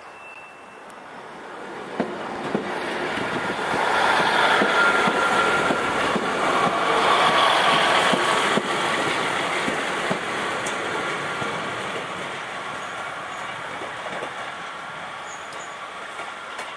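Class 150 diesel multiple unit passing close by on curved track: engine and wheel noise build to a peak about four seconds in and fade as it pulls away. Clicks of the wheels over rail joints and points run through it, with a faint squeal from the wheels.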